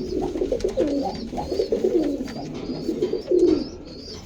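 Domestic roller pigeons cooing in a loft: many coos overlapping one another, with a louder coo a little after three seconds and thin high chirps mixed in.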